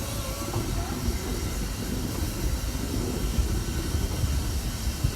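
Wind buffeting the microphone in gusts, over the sound of a narrow-gauge steam train.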